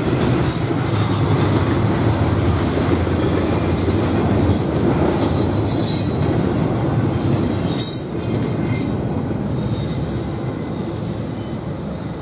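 Double-stack intermodal freight train's well cars rolling past at speed: a steady rumble of steel wheels on rail, with high-pitched squeal coming and going. The sound eases off over the last few seconds as the train draws away.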